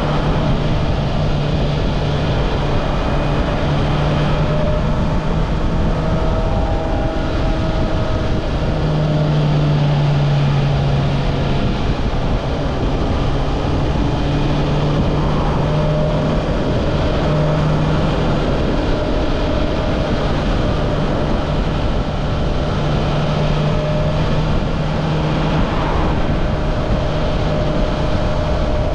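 Honda CB650R's stock-exhaust inline-four engine running at fairly steady revs as the bike is ridden, the pitch dipping slightly for a couple of seconds near the middle and then coming back up.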